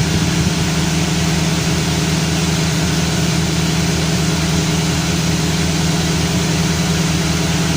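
Chevrolet Camaro engine running steadily with an even, unchanging hum.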